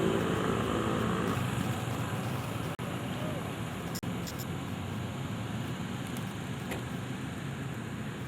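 Steady road traffic noise, with a vehicle engine fading away in the first second or so and voices in the background.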